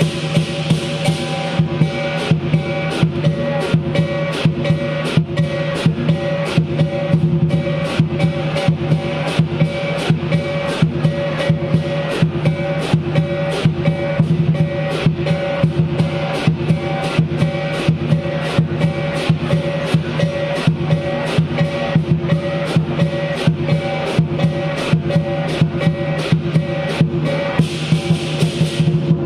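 Lion dance percussion: a big drum beating a steady, even rhythm, with the ringing of gong and cymbals held underneath throughout.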